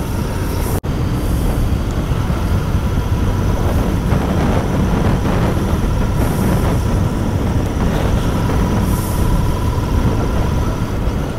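Royal Enfield Continental GT 650's parallel-twin engine on its stock exhaust, running steadily under way, with a brief dropout about a second in.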